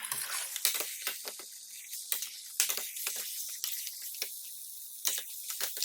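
Raw chicken pieces being stirred into a sizzling tomato masala in a pan: irregular scrapes and wet squelching clicks of the stirring over a steady frying hiss.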